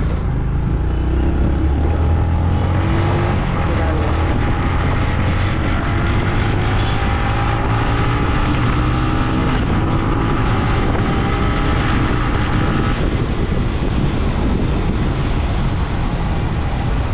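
Motorcycle being ridden through city traffic: steady engine and road noise, with engine tones that rise and fall slowly.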